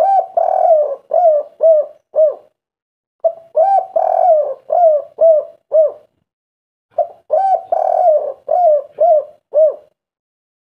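Spotted dove (tekukur) singing its 'kuk 3' coo: three phrases, each a longer slurred coo followed by a run of three short, clipped 'kuk' notes, repeated about every four seconds with short silences between.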